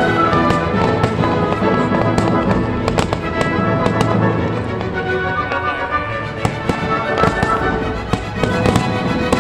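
Fireworks going off in many quick bangs and crackles over continuous music.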